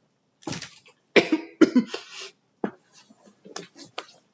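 A person coughing in a run of short coughs, the loudest in the first two seconds, trailing off into smaller coughs and throat clearing.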